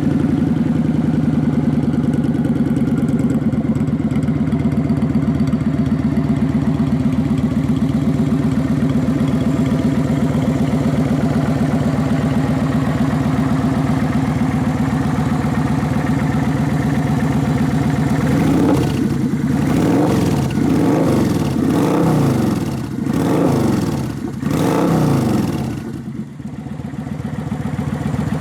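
2006 Kawasaki Vulcan 900's V-twin through an aftermarket Vance & Hines exhaust, idling steadily, then revved in a series of quick throttle blips, each rising and falling back, during the last ten seconds or so.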